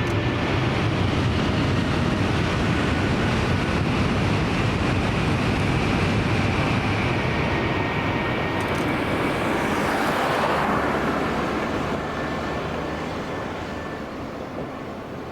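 Shinkansen bullet train passing at speed: a steady rushing roar that falls in pitch about ten seconds in and then fades away.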